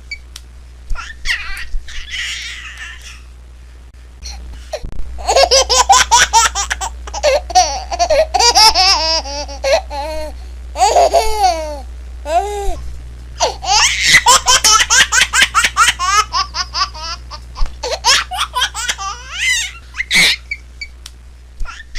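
Baby laughing in rapid bouts of high-pitched giggles and belly laughs, starting about five seconds in, with a short pause in the middle.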